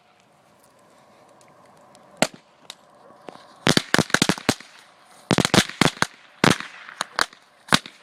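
Firecrackers packed inside a burning computer case going off: a single sharp bang about two seconds in, then rapid strings of cracks in two clusters, followed by a few scattered bangs, over a faint crackle of fire.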